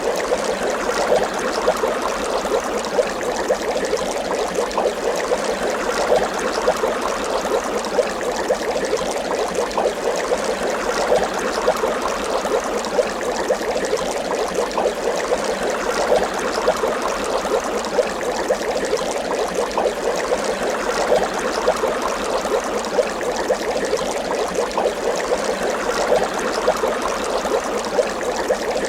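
Water bubbling continuously, a steady dense patter of many small bubbles popping and gurgling without a break.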